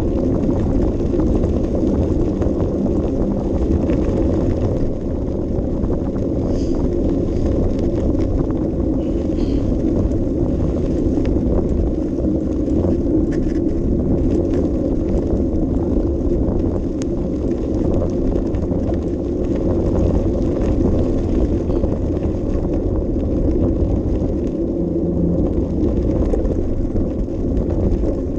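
Steady low wind rumble on an action camera's microphone, mixed with the rolling and rattling of a bicycle in motion, with a few faint ticks above it.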